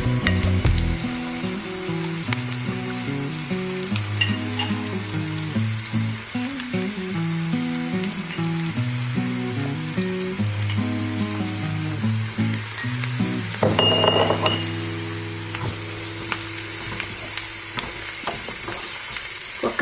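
Sliced onions and a pounded green chilli, coconut and ginger paste sizzling in hot oil in a nonstick pan, stirred with a spatula. The sizzle swells briefly about two-thirds of the way through.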